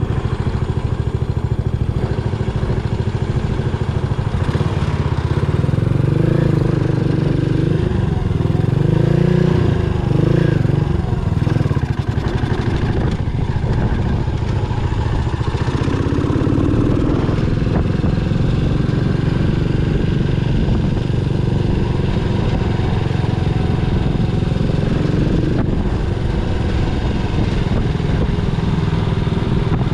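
Yamaha SR400's single-cylinder engine running steadily, with the revs rising and falling several times about six to eleven seconds in.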